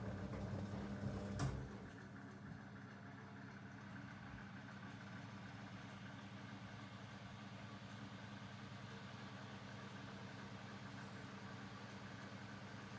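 Zanussi DL22 washing machine in its soak phase. A louder low motor hum stops with a sharp click about a second and a half in, leaving a quieter steady hum.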